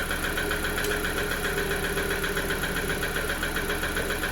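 MG 550's four-cylinder petrol engine idling cold with a distinct, steady knock, which the owner takes for a knocking piston.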